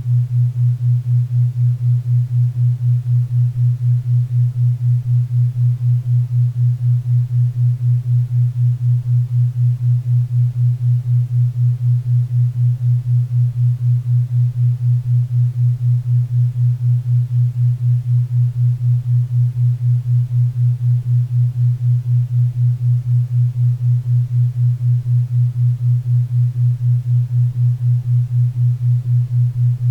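A 4 Hz theta-wave isochronic tone: a low, hum-like tone pulsing evenly about four times a second, over a faint bed of pink and brown noise.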